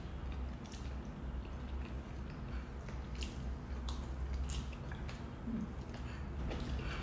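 Close-miked chewing and wet mouth sounds of people eating pork in black bean paste, with a few sharp clicks of spoon and fork against plates, over a steady low hum.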